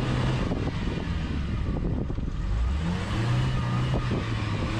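Off-road SUV's engine running at low revs, its pitch rising and falling as the throttle is worked, with a few faint knocks.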